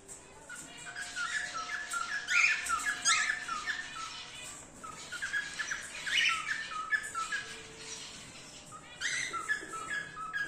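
Cockatiels squawking and chirping: a steady run of short, quick calls with louder harsh squawks breaking in every few seconds.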